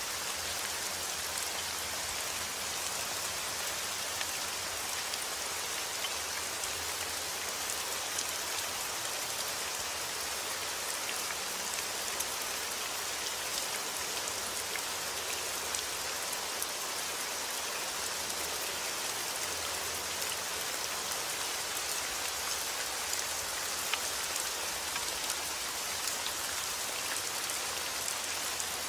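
Heavy rain falling steadily, an even hiss with many small drop patters on surfaces.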